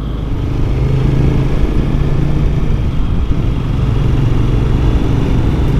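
Twin-cylinder motorcycle engine running steadily under way, picked up by a helmet-mounted camera, with road and wind noise over it.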